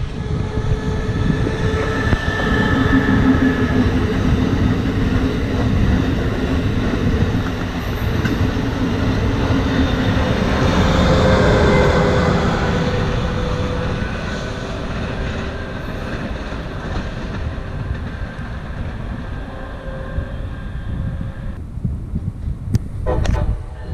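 Amtrak Acela Express high-speed trainset passing at speed, its power car and coaches rumbling over the rails. The sound is loudest as it goes by about halfway through and dies away after. Near the end the train sound gives way abruptly to wind on the microphone.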